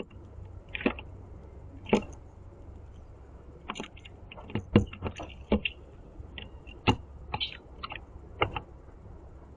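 Blue jay pecking and picking up seeds on a platform bird feeder close to the microphone: irregular sharp clicks and taps of beak and feet on the feeder and seeds, about a dozen spread unevenly, over a low steady rumble.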